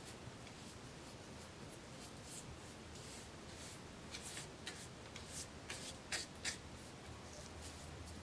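Faint scratching and rubbing strokes of hand work on a metal bayonet scabbard, coming thicker from about four seconds in, with two sharp clicks a little after six seconds.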